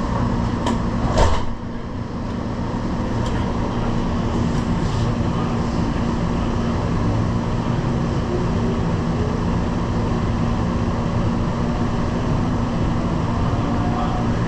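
Light-rail train heard from inside the car while it runs: a steady rumble with a constant hum, and a sharp clunk about a second in.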